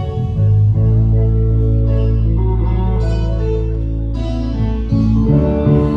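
Live band playing without vocals: a long-held low bass note under guitar chords, with the chord changing about five seconds in.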